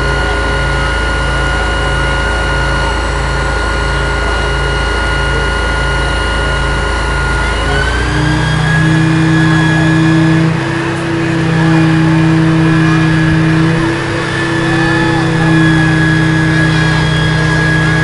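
Scania aerial ladder platform fire engine's diesel engine running, with a low tone pulsing about three times every two seconds. About eight seconds in, the engine speeds up and holds a higher, steady speed.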